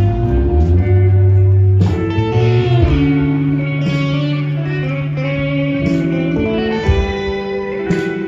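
A live band playing, led by electric guitar, with held, ringing chords that change every second or two and a couple of sharp hits along the way.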